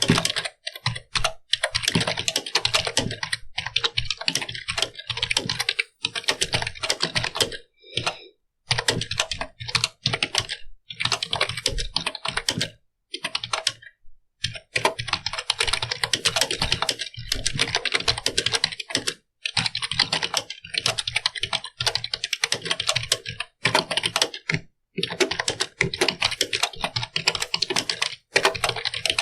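Computer keyboard being typed on: fast runs of key clicks, broken by brief pauses every few seconds.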